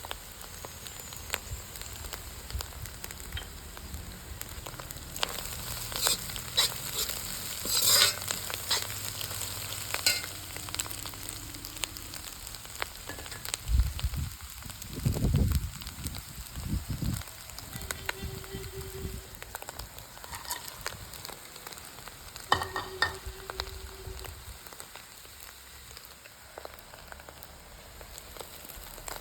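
Food sizzling in a hot pan while being stirred and tossed with a spatula, with scraping clicks of the spatula against the pan and a few low thuds about halfway.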